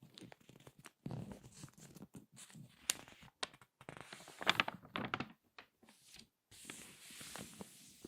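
Glossy magazine pages crinkling as they are squeezed and turned, with sharp irregular crackles, loudest in the middle, and a softer rustle of sliding paper near the end.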